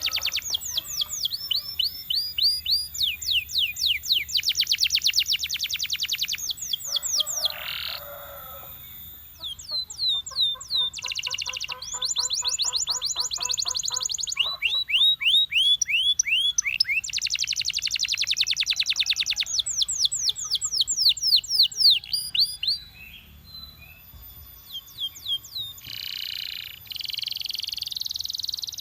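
Belgian canary singing long phrases of fast trills, each made of rapidly repeated sweeping whistled notes, with a couple of short pauses between phrases.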